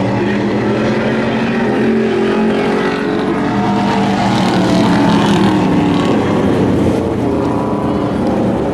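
Several race truck engines running together on the track, their overlapping pitches rising and falling as the trucks accelerate and lift through the laps.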